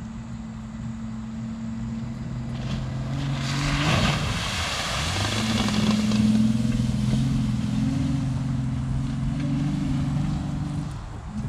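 Honda Accord's 3.0 V6 engine running under load while driving off-road. A loud rushing noise comes about four seconds in, then the revs rise and hold for several seconds before dropping off near the end.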